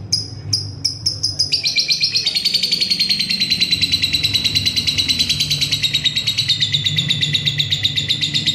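Lovebird's ngekek: a few quick separate chirps that speed up and, about a second and a half in, run together into a long, unbroken, rapid chattering trill.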